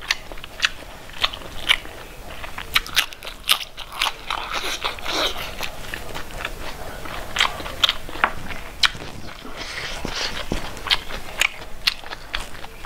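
A person chewing a mouthful of food, with irregular sharp clicks and crunches several times a second.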